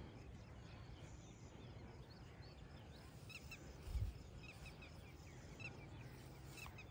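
Faint, short bird chirps repeating in quick little clusters over quiet field ambience, with a single low thump about four seconds in.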